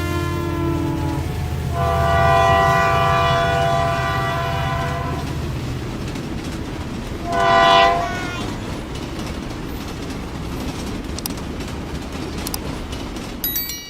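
Train sound effect: a train running with a steady low rumble while its horn sounds three times: a blast that stops about a second in, a longer one from about two to five seconds, and a short, loudest one near eight seconds.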